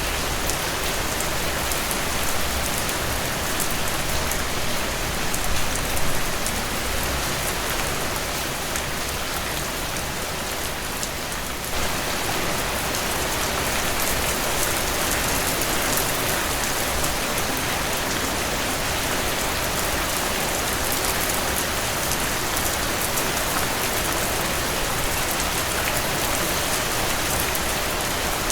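Heavy rain falling steadily, a dense even hiss with scattered sharp drop taps; the texture shifts slightly about twelve seconds in.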